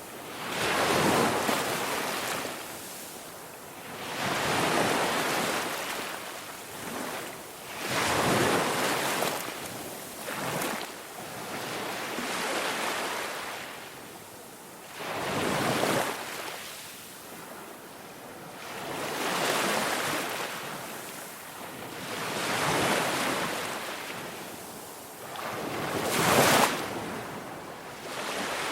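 Ocean waves washing in and drawing back, a swelling rush of surf that rises and falls about every three to four seconds.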